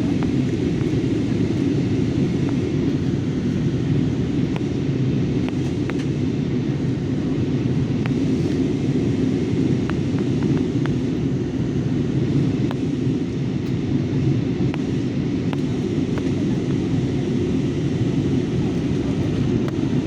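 Steady, low rumble of an airliner in flight, heard from inside the passenger cabin.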